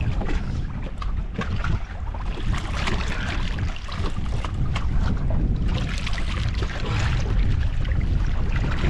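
Wind buffeting the microphone over water sloshing and splashing around a small open fishing boat, a steady low rumble with a hiss that swells a little in the second half.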